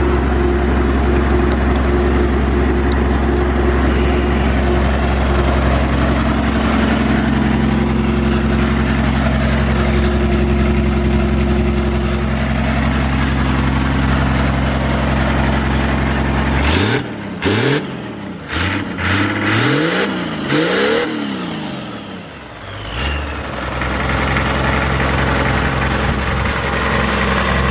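BMW M51D25 turbo-diesel straight-six engine idling steadily, then blipped up and down in several quick revs about two-thirds of the way in before settling back to idle.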